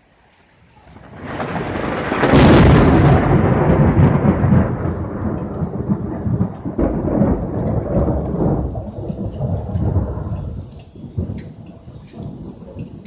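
Loud thunder close by: a rumble builds about a second in, breaks into a sharp crack, then rumbles on for several seconds and fades out near the end. Rain falls throughout.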